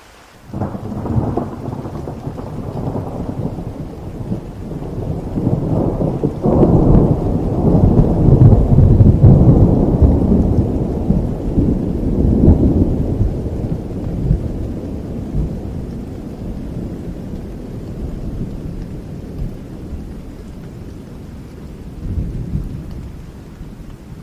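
A long roll of thunder over steady rain. It breaks in sharply about half a second in, swells to its loudest around the middle, then slowly rumbles away, with a smaller rumble near the end.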